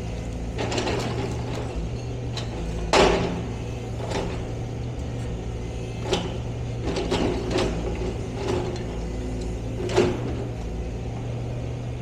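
A machine's engine running steadily with a series of sharp metallic clanks and knocks, the loudest about three seconds in and another near ten seconds.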